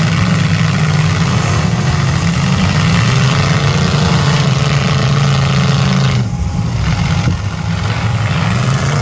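Several demolition derby stock cars' engines running hard and revving as the cars push against each other, the pitch rising and falling. The sound eases a little about six seconds in.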